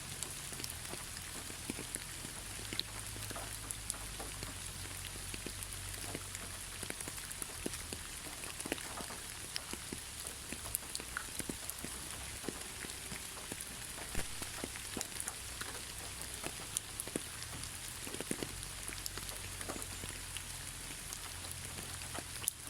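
Steady rain with individual drops pattering and ticking on a hard surface.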